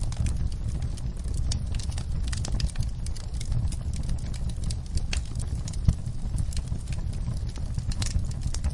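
Wood fire crackling, with irregular sharp pops over a steady low rumble of the flames; one louder pop about six seconds in.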